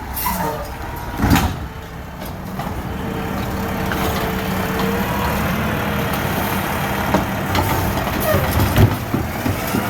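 Garbage truck running with a steady engine hum. There is a loud clank about a second in, a held whine for a couple of seconds in the middle, and more knocks and clanks near the end.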